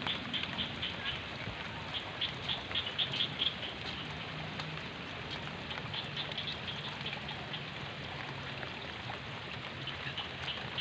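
Steady rain falling, with clusters of quick, high ticks.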